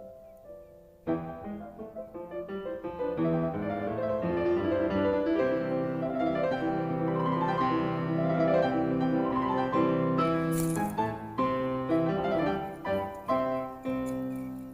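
Background piano music: soft notes at first, then about a second in a fuller passage of many notes that thins out again near the end.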